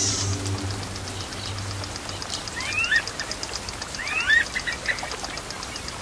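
A wetland bird giving a two-part call, a quick rising and falling sweep, three times about every one and a half seconds, over a fast, even train of high ticks. A low hum fades out about two seconds in.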